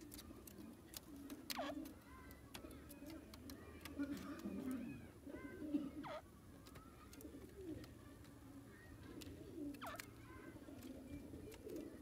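Birds calling: three quick, falling whistle-like calls, about a second and a half in, near the middle and near the end, over a low wavering murmur.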